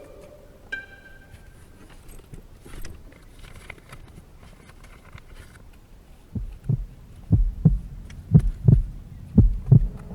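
Heartbeat sound effect: low double thumps, lub-dub, about one pair a second, starting about six seconds in and growing louder.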